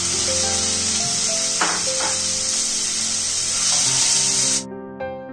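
Marinated chicken pieces sizzling in hot oil in a frying pan, stirred with a spatula with a couple of scrapes, over background music. The sizzle cuts off abruptly near the end, leaving only the music.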